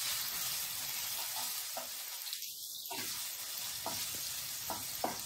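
Steamed gooseberry pieces sizzling in hot gingelly oil with spluttered mustard seeds as they are tipped into a frying pan and stirred with a wooden spatula, a steady hiss with several short knocks of the spatula against the pan from about a second in.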